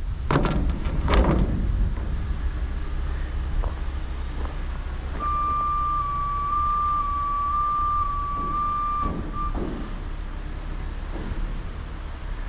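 Heavy diesel engine of a Peterbilt rotator wrecker running steadily while its winch pulls in the line. A steady high whine holds for about four seconds in the middle.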